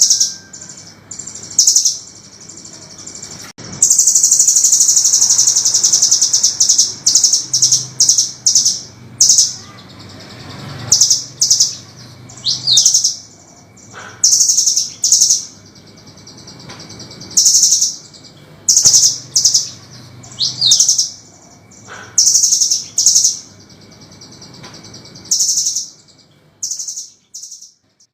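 Velvet-fronted nuthatch (burung rambatan) calling: bursts of short, sharp, high-pitched notes, with one long rapid trill about four seconds in and a few quick falling notes later on.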